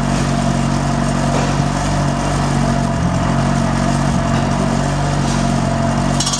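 Gasoline engine of a Meco walk-behind concrete cutting saw, running steadily at a constant speed.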